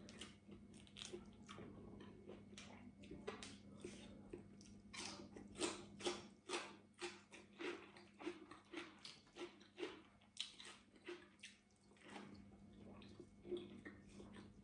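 Close-up chewing of crisp raw green vegetable stalks: a run of short crunches and mouth clicks, about two a second.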